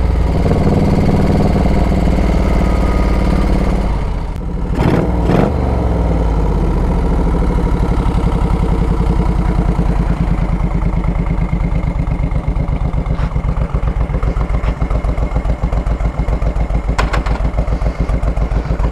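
A 1970s Moto Guzzi's transverse V-twin engine running as the chopper rolls to a stop, then settling into a lopey, Harley-like idle with an even thumping beat.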